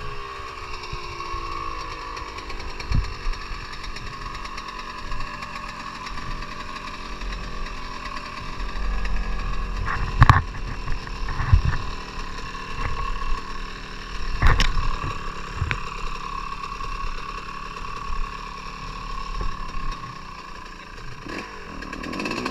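Dirt bike engine running steadily, with a few sharp knocks and thumps.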